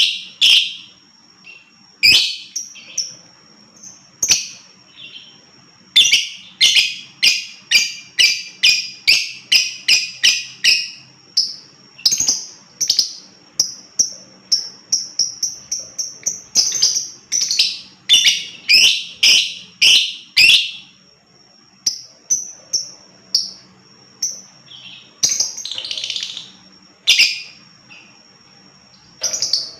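Lovebird calling in runs of sharp, shrill chirps, about two to three a second, in strings of several seconds broken by short pauses, with a quicker run of smaller chirps in the middle. A thin, steady high tone runs under much of it.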